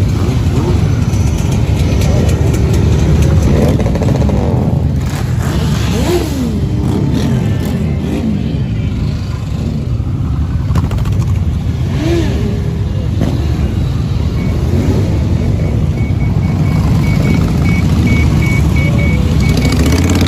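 Many motorcycle engines running together in a steady loud rumble, with individual bikes revving or passing so that the pitch rises and falls several times.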